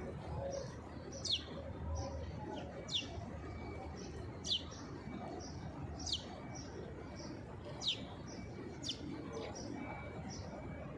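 A small bird repeatedly gives a sharp chirp that falls steeply in pitch, about once every second and a half, with fainter high notes in between, over a low steady background hum.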